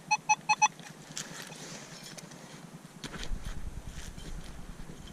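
Four quick, short electronic beeps from a metal detector pinpointer signalling a target, followed by scraping and rustling of digging in hard soil, with a low rumble from about three seconds in.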